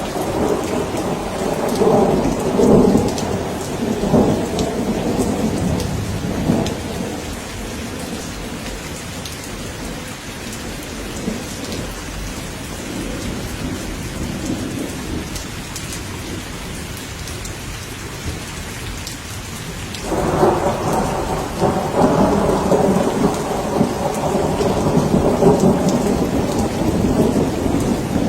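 Thunderstorm: steady rain with rolling thunder. A roll of thunder rumbles for the first several seconds and dies away, leaving the rain. A new roll breaks in suddenly about two-thirds of the way through and keeps rumbling.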